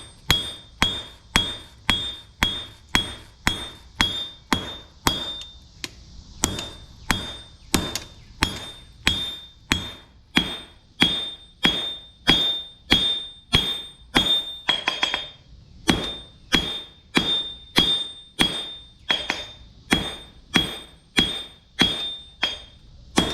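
Hand hammer striking a hot railroad spike on an anvil in a steady rhythm of about one and a half blows a second, each blow with a bright, high anvil ring, as the cheeks of a bearded axe head are forged. There is a brief break in the rhythm about fifteen seconds in.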